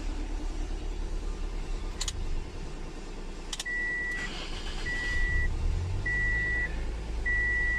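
Toyota Corolla XLi engine idling steadily, running again after a repaired break in the ECU's main supply wire had left it cranking without starting. Two sharp clicks come about two and three and a half seconds in, then a high electronic beep sounds about once a second.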